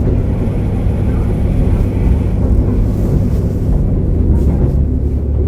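KiHa 47 diesel railcar running on the line, heard from inside: a steady low rumble of the diesel engine and wheels on the rails. It sounds muffled, recorded with the phone in a pocket.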